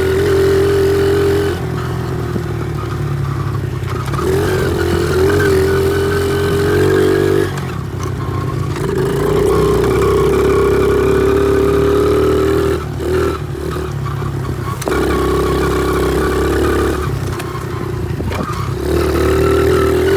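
Honda XR70 pit bike's small four-stroke single engine running under way, the throttle opened and eased off again and again, its pitch rising and falling every few seconds. Some rattling clatter comes through with it.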